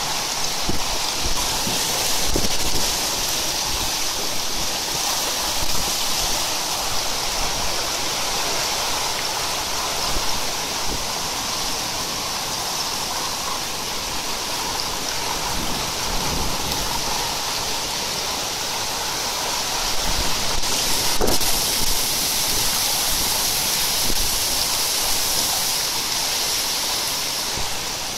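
Torrential rain pouring down hard, a dense steady rush of water with occasional thuds and a sharp knock about twenty seconds in.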